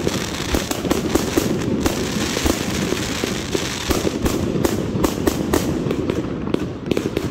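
Consumer aerial fireworks firing in quick succession: a steady run of launch thumps and bursting shells, several reports a second.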